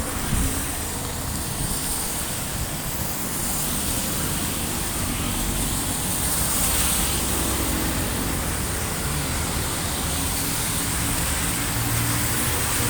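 Heavy rain falling steadily, mixed with the hiss and rumble of traffic on a wet road; a vehicle engine's low hum rises near the end.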